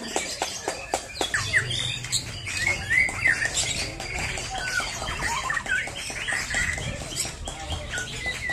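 Several white-rumped shamas (murai batu) singing at once: a dense tangle of overlapping fast whistles and chirps, with a run of sharp clicks in the first second.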